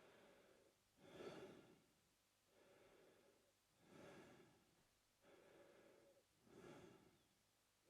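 A man breathing quietly through his mouth at a slow, even pace. Each breath in and out is audible, giving about three full breaths, one every two and a half to three seconds.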